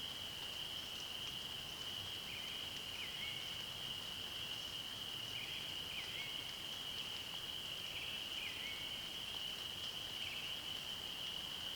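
A steady high-pitched animal chorus holding one pitch throughout, with short hooked chirps repeating every two to three seconds over it.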